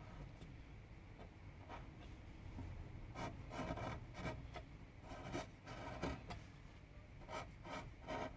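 Carving tool cutting into pine wood in a run of short scraping strokes, starting about three seconds in.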